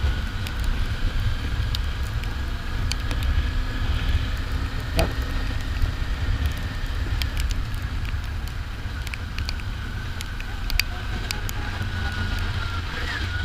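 Kawasaki Ninja 400's parallel-twin engine running at a steady cruise, under heavy wind rumble on the microphone, with scattered sharp clicks.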